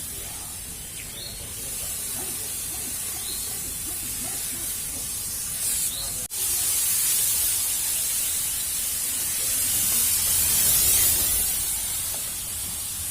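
Insecticide fogging machine running, with a steady loud hiss of spraying fog over a low rumble, broken by a brief gap about six seconds in.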